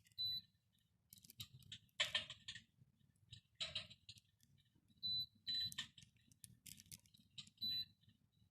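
Electric fireplace's control unit giving about five short, high beeps, among scattered clicks and handling noises.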